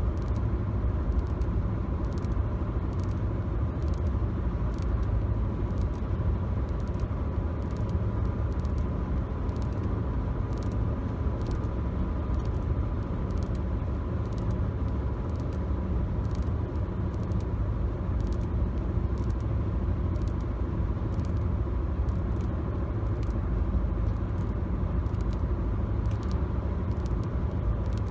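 Steady low road rumble inside a moving car's cabin, picked up on a phone microphone, with a thin steady tone and many faint, irregular light clicks over the top.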